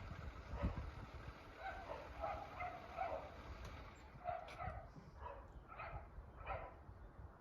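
A dog barking faintly in a string of short yaps, a few to a second, more frequent in the second half.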